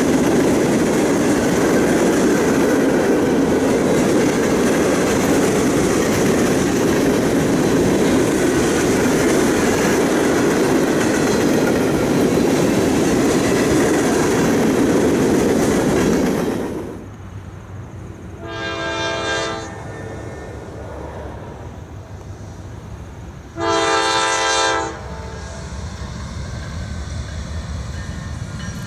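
Freight train rolling past with steady rumbling and wheel clatter, which stops abruptly about two-thirds of the way through. Then a diesel locomotive's air horn sounds a chord twice, a shorter softer blast and then a louder one, over a low rumble.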